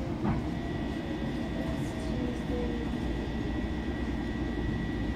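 Interior running noise of a Long Island Rail Road electric commuter train as it comes into a station: a steady low rumble with a thin, steady high whine over it.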